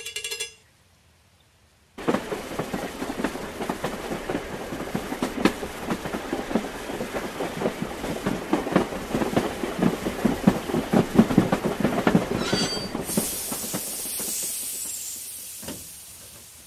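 Train sound effect: a train running on rails with a rapid clickety-clack of the wheels, starting about two seconds in. Near the end it gives way to a high hiss that fades out.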